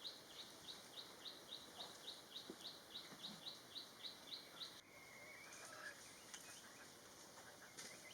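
A bird calling a steady series of short, high notes, about three a second, faint against quiet jungle background; the series stops suddenly about five seconds in, leaving a few faint chirps.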